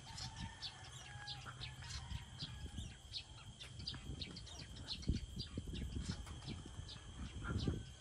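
Birds chirping and calling in quick, repeated short notes over a low rumble.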